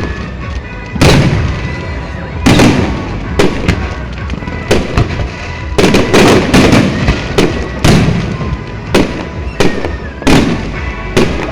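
Aerial fireworks shells bursting overhead, about fifteen loud bangs at uneven intervals, several coming in quick runs of two or three.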